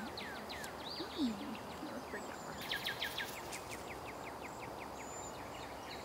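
Songbirds singing outdoors: a series of quick, high, downward-slurred chirps, with a fast trill a little before the middle. The notes sit over a steady outdoor hiss, and there is a brief low sound about a second in.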